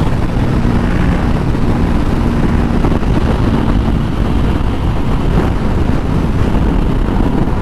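Steady wind rush on the microphone at highway speed, with the low drone of a Honda CBR500R's parallel-twin engine running at a constant cruise underneath.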